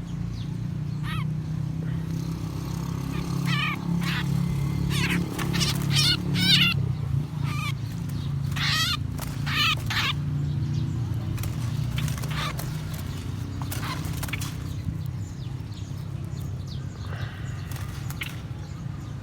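Small songbirds calling in short, sharp chirps and warbled notes, thickest in the first half and sparser after, over a steady low rumble.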